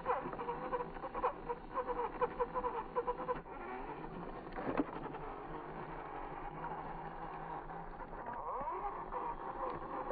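Whine of a toy vehicle's small electric motor, its pitch wavering for the first few seconds, then gliding upward near the end.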